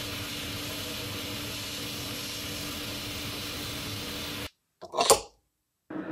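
A machine running steadily, a constant hiss over a low hum, cutting off abruptly about four and a half seconds in; a short, loud noisy sound follows about a second later.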